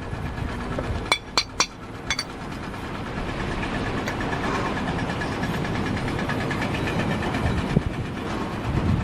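Machinery engine running steadily, with a few sharp clicks about a second in and a fast, even ticking through the middle.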